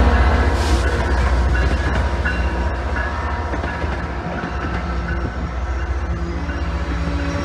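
A train running past on the rails: a loud, continuous rumble of wheels on track with some rail clatter, easing slightly in level partway through.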